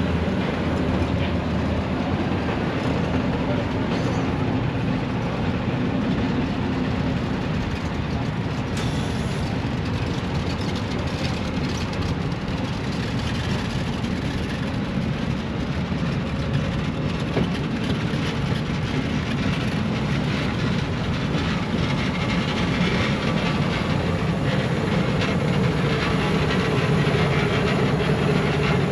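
A passenger train's cars rolling past steadily, with a continuous rumble of steel wheels on the rail.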